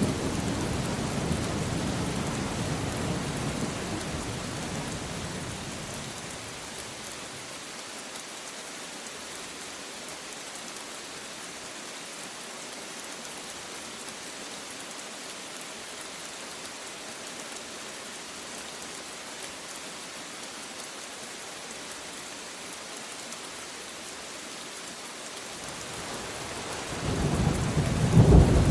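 Steady rain falling through a thunderstorm, with a low roll of thunder dying away over the first few seconds. Near the end a new rumble of thunder builds and grows loud.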